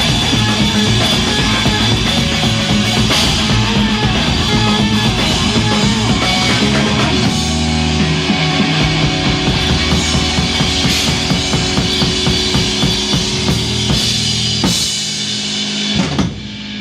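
Live rock band playing loud with a full drum kit, bass drum and snare driving under electric guitars. About a second before the end the music drops away, apart from one short final burst.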